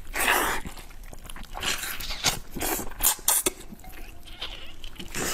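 Close-miked wet chewing and mouth sounds of someone eating meat, in irregular squishy bursts.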